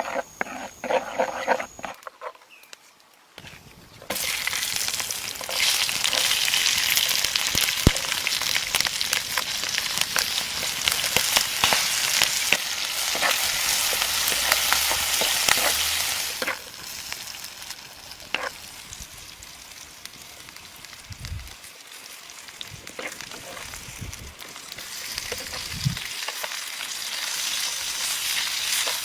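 Frogs frying in hot oil, sizzling loudly from about four seconds in, easing off after about sixteen seconds and building again near the end, with a few sharp clicks of stirring. A brief pitched sound comes before the sizzle begins.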